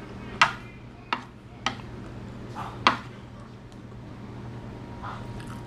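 Cutlery and dishes clinking: about five sharp clinks in the first three seconds, some ringing briefly.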